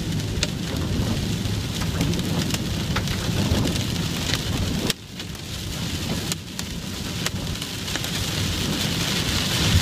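One-inch hailstones pelting a car, a dense clatter of hard impacts with sharper single strikes standing out. It eases briefly about halfway through.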